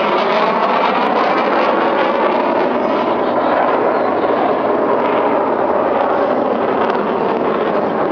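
F/A-18 Hornet fighter jet's twin turbofan engines passing low in a fly-by: loud, steady jet noise whose high hiss fades over the first few seconds, leaving a lower rumble as it moves away.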